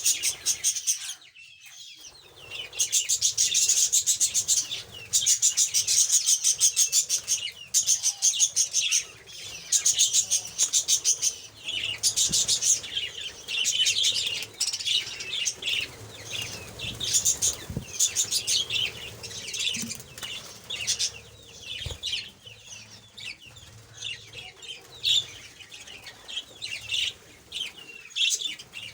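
Birds calling in fast, high-pitched chattering trills, in bursts of one to two seconds with short gaps between them.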